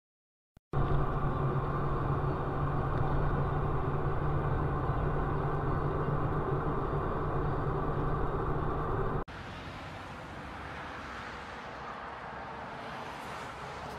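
Steady vehicle engine and road noise with a low drone, starting abruptly after a moment of silence. About nine seconds in it cuts off sharply and is replaced by quieter, hissier road noise.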